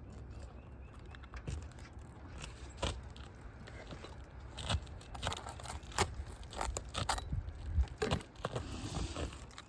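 An asphalt roofing shingle being pried and worked loose from the roof. Irregular scrapes and sharp clicks, growing busier and louder about halfway through.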